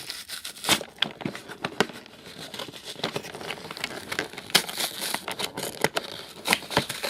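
Transformers toy box being torn open by hand, with irregular crinkling and tearing of the packaging.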